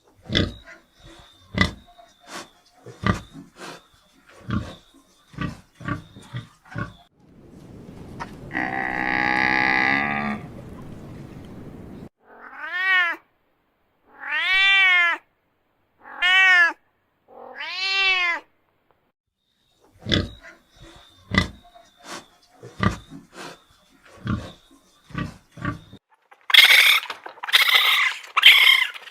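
A sequence of animal calls. First comes a run of sharp clicks, then one long call, then four short calls that each rise and fall in pitch. More clicks follow, and a loud, rough call comes near the end.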